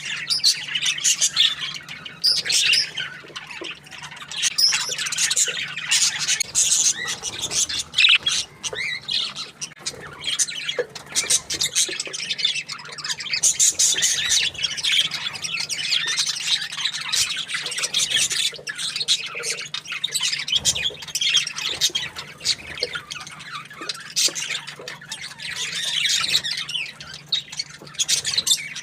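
Budgerigars chirping continuously, many quick overlapping calls.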